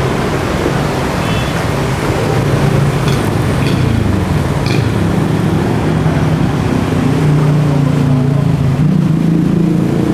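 Roadside traffic: motorbike engines running and passing, their pitch rising and falling, over a steady street hiss, with a few light clicks partway through.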